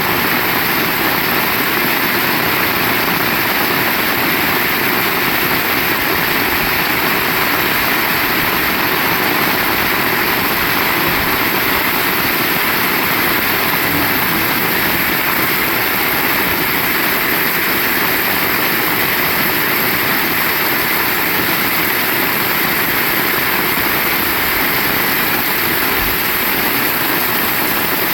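Heavy rain falling in a steady, dense hiss, with no breaks.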